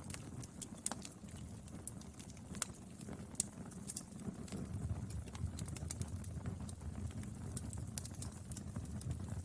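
Wood fire burning: a steady low rumble with scattered sharp crackles and pops, and a few louder snaps in the first half.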